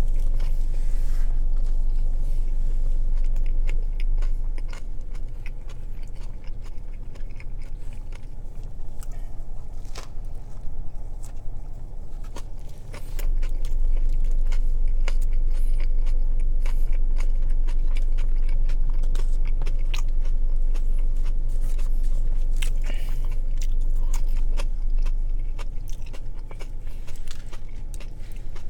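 Close-mic'd chewing and biting of a sweet onion teriyaki chicken sub: wet mouth sounds with many small irregular clicks and smacks, over a steady low hum.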